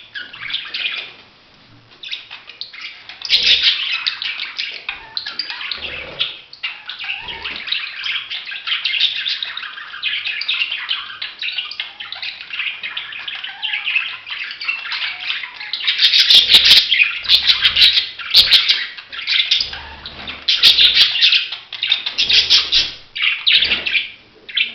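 Budgerigar warbling and chirping in a continuous, busy chatter of quick notes, louder in the second half, with a few sharp clicks among it.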